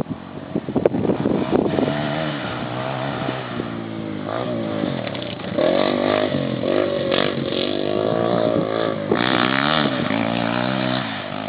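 Dirt bike engines revving hard, rising and falling as they accelerate and shift gears, with more than one bike heard at once at times.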